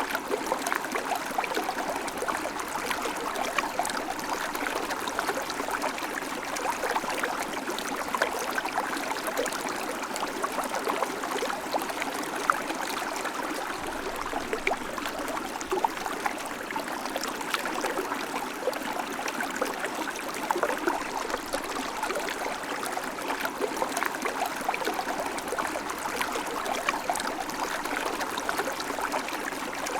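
River water flowing and splashing, a steady rushing with many small splashes and gurgles.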